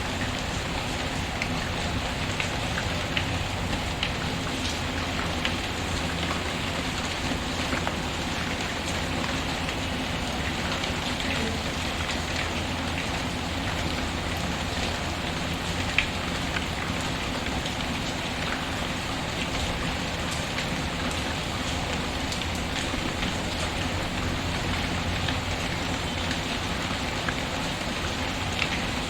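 Steady rain pattering, mixed with a fireplace crackling in scattered small clicks, and one sharper pop about halfway through.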